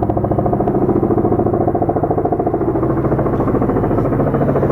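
Low-flying military helicopter close overhead: a loud, steady rotor beat, a fast even thudding over a deep engine drone.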